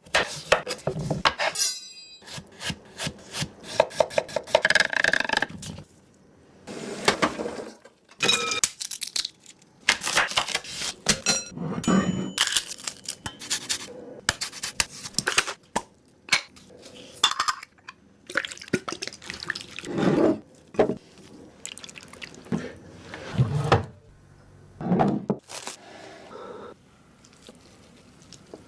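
Kitchen food preparation: a knife cutting and scraping on a wooden cutting board, likely slicing a cucumber, in irregular bursts of knocks and rubbing, with occasional clinks of dishes.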